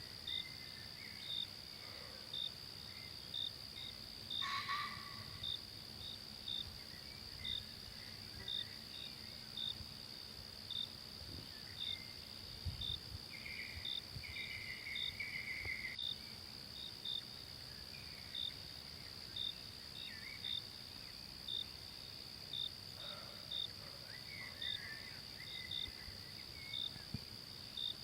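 Night insects in a forest, a steady high drone with a short chirp repeating about once a second. Occasional soft bird calls come and go, with a longer trill near the middle.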